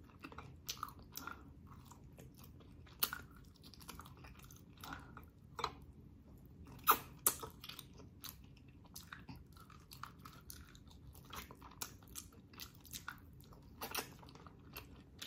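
Close-miked chewing of boiled pork leg meat, with irregular wet smacks and sharp mouth clicks.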